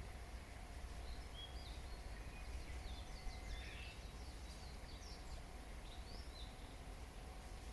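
Small birds chirping and singing: many short, high notes with quick pitch slides, clustered most densely from about one to seven seconds in, over a steady low rumble.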